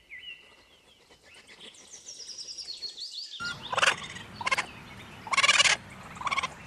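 Hedgehog calls: four short, noisy bursts of rapid pulses in the second half, the third the longest. Before them, faint high bird chirps.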